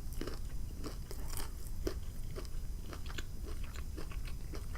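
Close-up crunching and chewing of a battered, fried butterfly shrimp: many short, irregular crunches.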